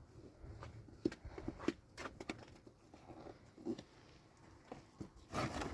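Scattered knocks and taps with shuffling between them, the loudest cluster near the end.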